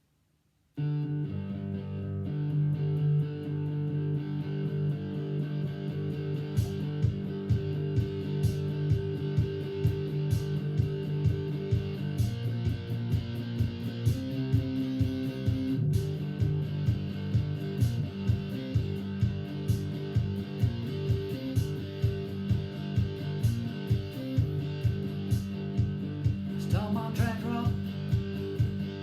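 Guitar music: an instrumental song intro that starts just under a second in, with a steady beat about twice a second.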